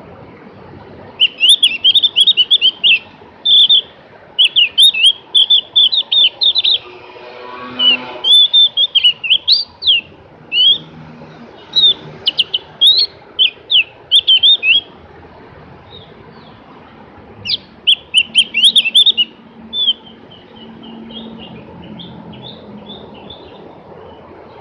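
Opior jawa (Javan grey-throated white-eye) singing: loud, rapid runs of high chattering notes in bursts of a second or two, broken by short pauses.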